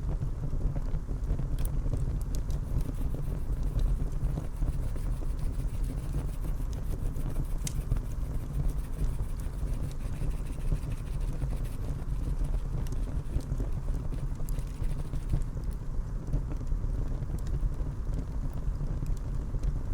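Wind buffeting the microphone: a steady low rumble, with faint small clicks and ticks scattered through it.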